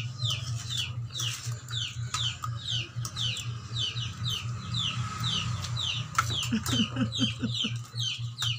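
A bird peeping: short high chirps, each falling in pitch, about three a second, over a low steady hum.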